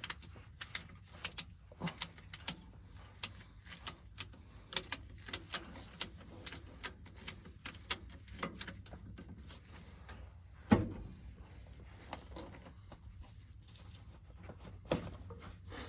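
Ratchet strap being cranked tight, its ratchet mechanism clicking in sharp, uneven clicks about two a second, with one louder knock about eleven seconds in.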